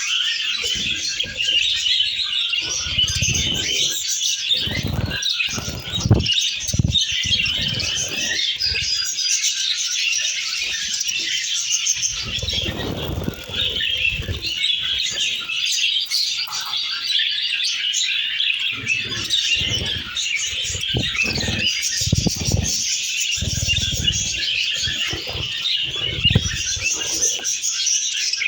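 Several pet lovebirds, Fischer's lovebirds among them, chirping constantly in a dense high-pitched chatter, with bursts of wing flapping at times.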